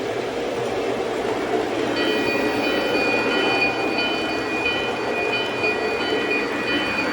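O-scale model train running on the layout's track with a steady rumble. From about two seconds in, a cluster of high, steady tones comes and goes over it.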